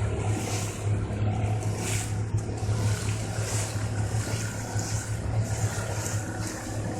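Motorboat engine running at a steady low drone, with wind and water rushing past the hull.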